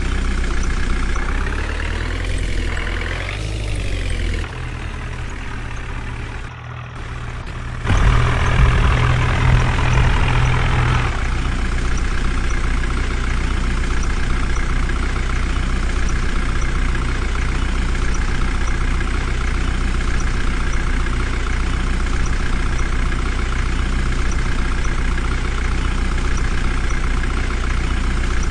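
Heavy diesel engine running, with a short wavering rise and fall in pitch a few seconds in and a brief dip in level around seven seconds. It gets louder from about eight seconds, then runs steadily.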